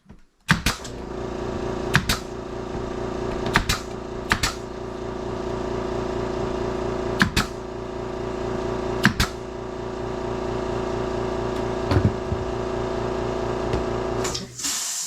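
A motor starts half a second in, runs at a steady pitch and cuts off abruptly near the end. Sharp knocks sound over it every one to three seconds, about seven in all.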